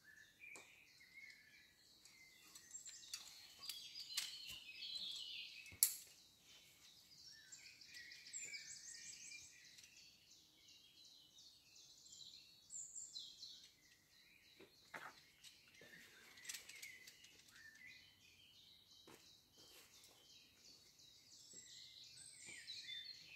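Faint birdsong: several birds singing at once with chirps and rapid trills, and a few sharp clicks, the loudest about six seconds in.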